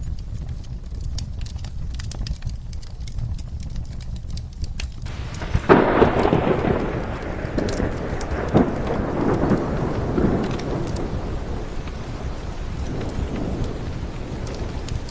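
A thunderclap breaks about five seconds in, with a sharp crack, then rolls and fades over several seconds, over steady rain and the sparse crackle of a wood fire in a fireplace.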